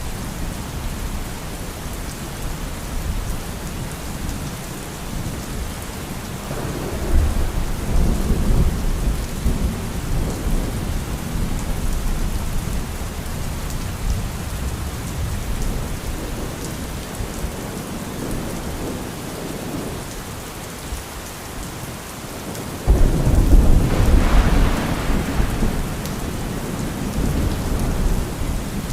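Thunderstorm: steady rain with rolling thunder, one rumble swelling about a quarter of the way in and a louder, sharper clap breaking suddenly near the end and rumbling on.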